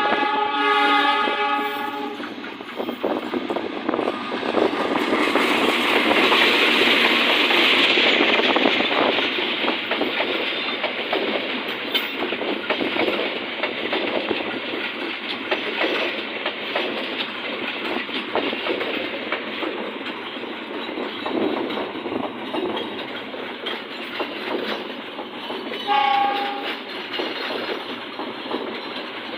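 Diesel locomotive horn sounding for about two seconds, then a train passing close by, running loudly with rumble and wheel clatter over the rail joints. A second short horn blast comes near the end.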